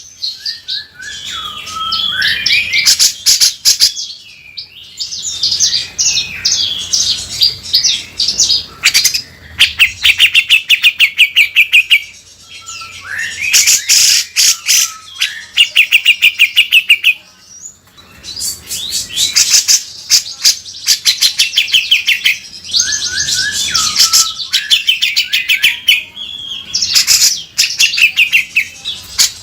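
Cucak jenggot (grey-cheeked bulbul) singing vigorously in repeated phrases, each a fast rattling trill with harsh, scratchy rising notes, separated by short pauses.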